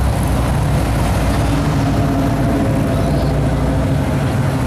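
Car engines running, a steady, loud low rumble of vehicles going by.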